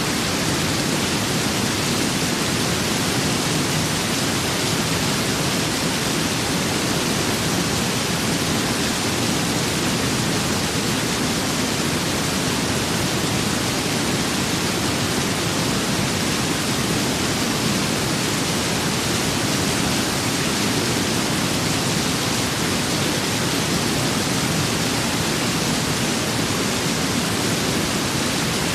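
Steady, dense rain-and-wind storm ambience: an even rushing hiss with a low rumble under it, no single drops or thunder claps standing out.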